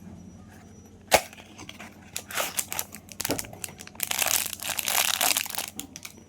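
A soap bar's wrapper being torn open and crinkled: one sharp snap about a second in, then crackling, and a longer, louder stretch of tearing near the end.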